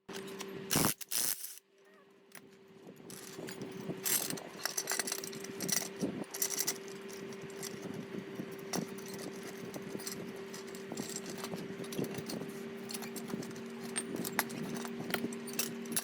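A machine running with a steady hum, with many small metallic clicks and rattles throughout and a few loud knocks about a second in.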